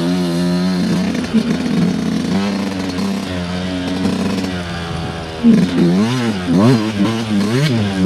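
Dirt bike engine running at a fairly steady speed, then from about five and a half seconds in revving up and down over and over, two or three swings a second, as the throttle is worked on the trail.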